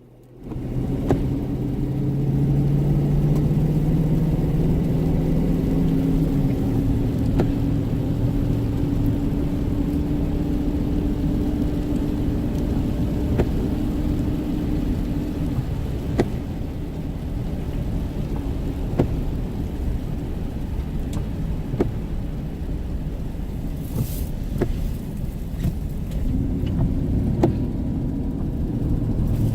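A car driving, with a steady engine hum over low road rumble. The engine note rises slightly over the first few seconds and drops about six seconds in, with a few faint clicks scattered through.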